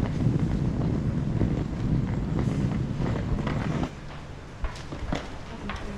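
Wind buffeting the microphone over a low rumble, which cuts off sharply about four seconds in, leaving a quieter background with a few sharp knocks.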